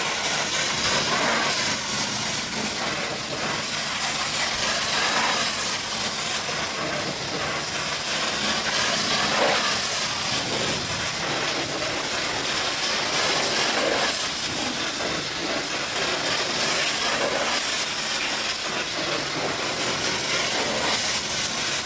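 High-pressure washer jet spraying water against a truck, a steady loud hiss whose tone shifts briefly every few seconds as the spray moves across the surface.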